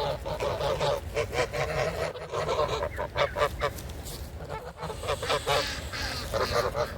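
Domestic geese honking repeatedly: a run of short, overlapping calls from several birds.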